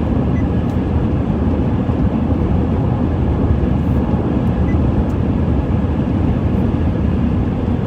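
Steady road and engine noise inside a car's cabin at highway speed, about 76 mph.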